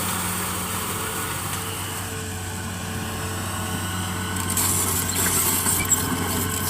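Engine of sand-mining machinery running steadily with a low hum. About two-thirds of the way in a hissing noise grows louder, and there is a single sharp knock near the end.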